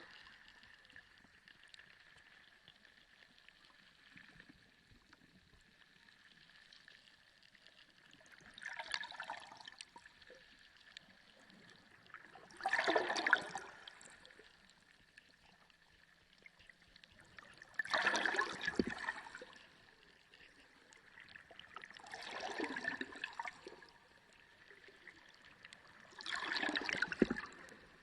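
Underwater water sound: five loud surges of water noise, each about a second long, arrive every four to five seconds over a faint steady hiss.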